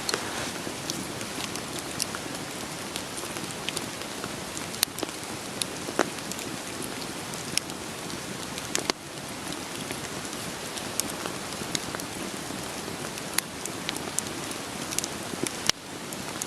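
Steady rain with a wood fire crackling, sharp pops scattered irregularly through the patter.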